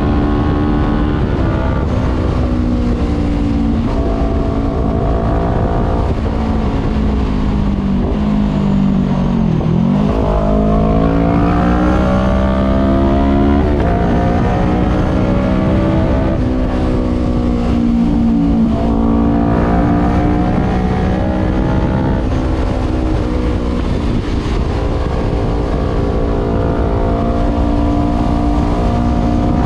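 Voge 500R's parallel-twin engine through a full exhaust with the dB killer removed, heard from on board while riding. The engine note sinks for several seconds, dips and then climbs hard about a third of the way in, drops back at a gear change, and rises and falls again with the throttle.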